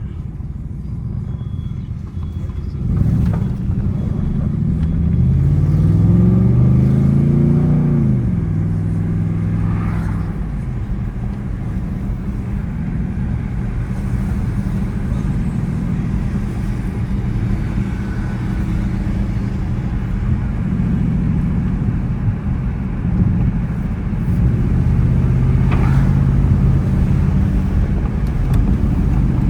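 Dodge Charger R/T's 5.7-litre Hemi V8 pulling hard, its note rising in pitch for several seconds before dropping back at a shift, then running at a steady cruise; near the end it gets louder again under another pull.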